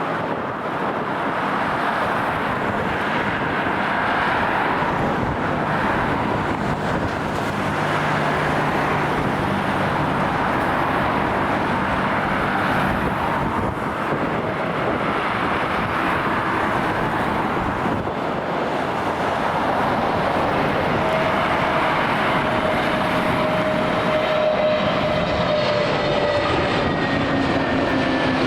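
Jet airliner engine noise, a loud steady roar. In the last several seconds a whine falls slowly in pitch as the aircraft passes.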